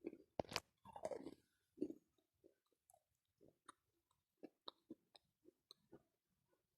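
Close-up chewing of wet chalk, the mouthful a soft paste with some grit in it. There is a sharp click about half a second in, then moist chewing with scattered wet clicks that thin out toward the end.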